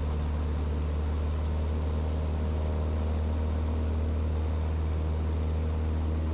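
Cessna light aircraft's piston engine and propeller droning steadily, heard from inside the cockpit.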